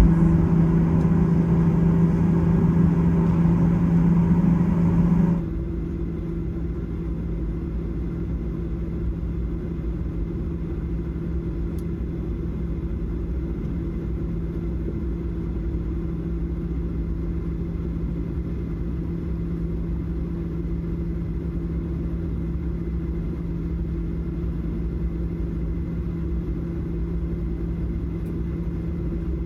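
Steady jet cabin drone of a Boeing 737-800, a low hum over a rushing noise. About five seconds in it drops suddenly to a quieter, duller steady drone.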